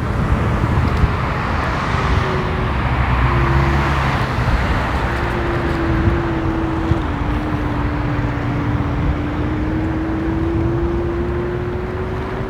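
Ninebot F2 electric kick scooter riding on wet pavement. A steady hum from its motor sags slightly in pitch through the middle and climbs back near the end, over a continuous rush of tyre and wind noise.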